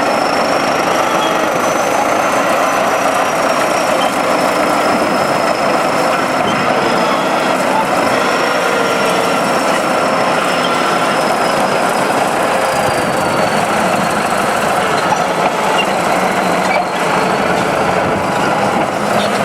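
A heavy diesel machine running steadily, with a faint high whine that wavers slightly in pitch.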